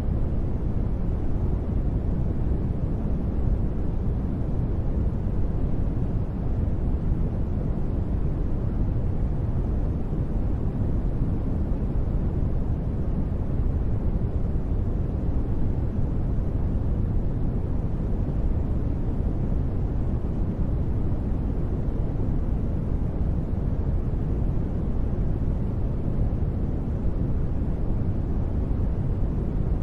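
Continuous sleep noise, steady and unchanging, weighted heavily toward the low end so it sounds like a deep, even rush rather than a bright hiss.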